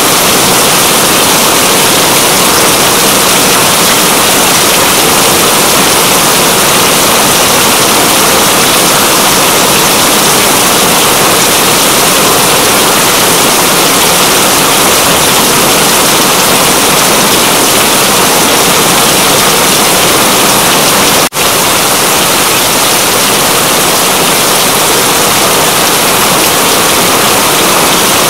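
Steady, dense rainfall hiss, with a momentary dropout about three-quarters of the way through.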